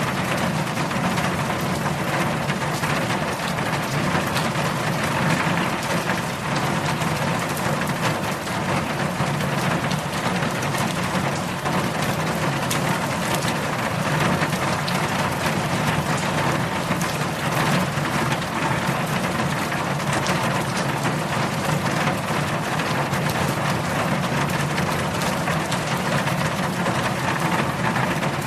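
Heavy rain falling as a steady, dense hiss, with a low rumble underneath.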